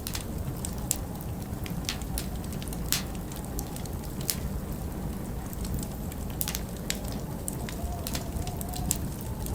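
Wood fire crackling in a large stone fireplace, with sharp irregular pops about one or two a second over a steady low rumble of winter wind.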